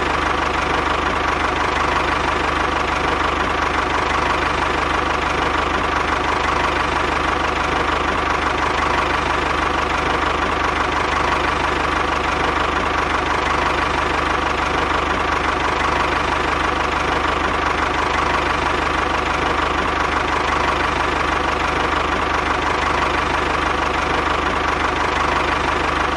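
A motor running steadily at an even speed, with a constant whine and a rattle.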